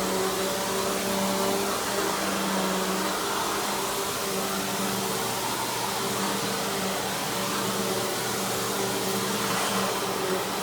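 Simplicity Symmetry Deluxe upright vacuum running steadily: its 12-amp single-stage motor gives a rush of air with a steady hum.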